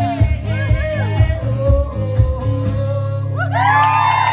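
Live country song on acoustic guitar with a man singing, ending on a sustained chord; the audience breaks into cheering near the end.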